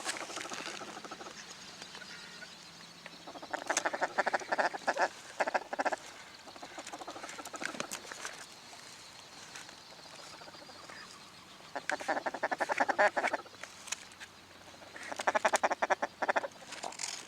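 Mallard quacking in three runs of rapid, repeated quacks: one about three seconds in, one past the middle, and one near the end.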